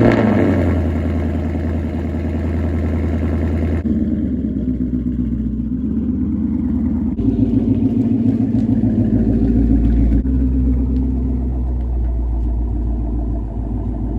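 Ford Mustang GT's 5.0 V8 flaring loudly just after a start, then running steadily at idle or low speed. The sound changes abruptly a few times.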